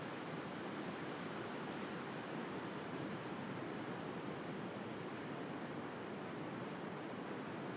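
Steady wash of sea surf, with a few faint crackles from a wood fire.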